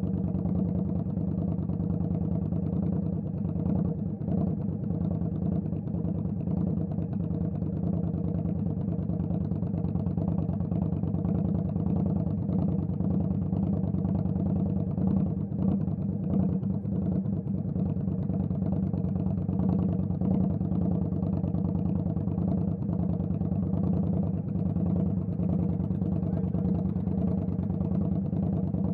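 Indian Scout Bobber's V-twin engine running at a steady, unchanging note.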